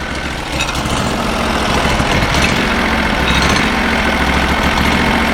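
Norwood portable band sawmill's engine running steadily, growing louder over the first couple of seconds as the mill is brought up for a cut into a log.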